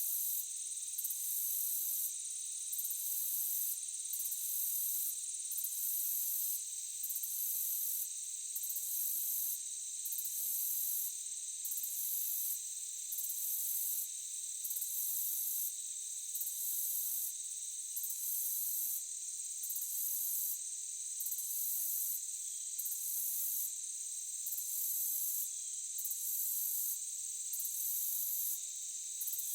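Crickets calling in a dense, steady chorus of several high trills. The highest trill breaks off briefly in a regular rhythm, about every second and a half.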